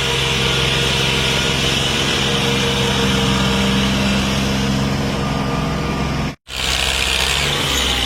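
Tractor's diesel engine running steadily under load, with a steady hiss above it; the sound cuts out for a split second about six and a half seconds in, then carries on.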